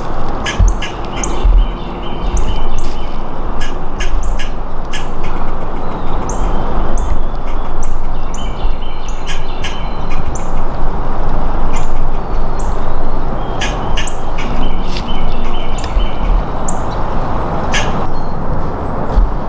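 Birds chirping, with many short high chirps and clicks, over a loud steady rushing noise.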